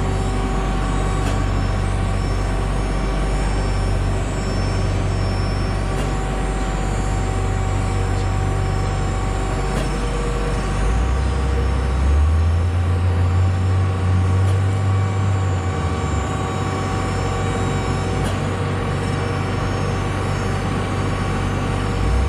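Farm machine engine running steadily under load while sawdust is moved. It revs higher for a few seconds around the middle, then settles back.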